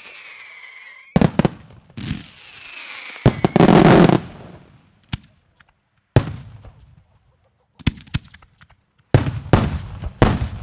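Daytime fireworks going off: a string of sharp aerial bangs one to two seconds apart, with a falling whistle in the first second. About three to four seconds in comes a dense crackling rush, the loudest part, followed by two more volleys of bangs near the end.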